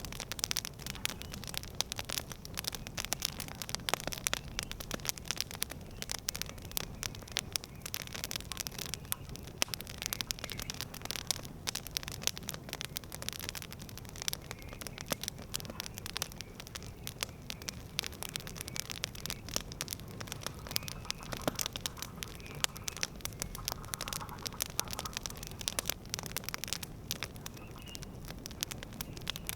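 Campfire crackling: a dense, irregular stream of sharp pops and snaps from burning wood over a low steady rumble of flame.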